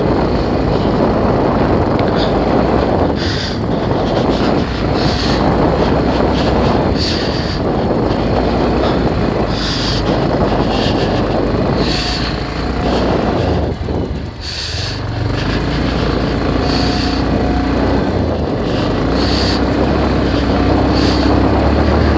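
Bajaj Pulsar 220F's single-cylinder engine running as the motorcycle climbs a hill road, under heavy wind noise on the microphone. The engine note dips briefly about two-thirds of the way through, then comes back steadier and stronger.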